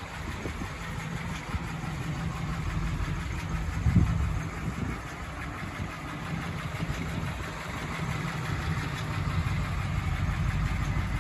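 1941 Packard One-Twenty's straight-eight engine idling steadily, with one short thump about four seconds in.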